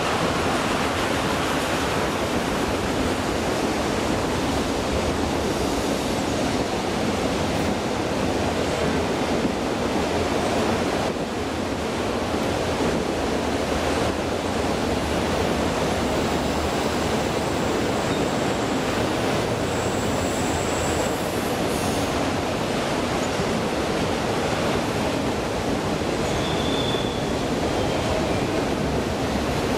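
Autorack freight cars rolling past on a curve: a steady rush and rumble of steel wheels on rail. Brief, faint high wheel squeals come twice in the second half.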